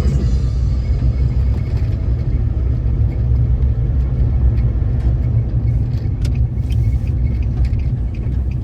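Steady low rumble of a car driving along a road, heard from inside the cabin, with a few faint ticks near the end.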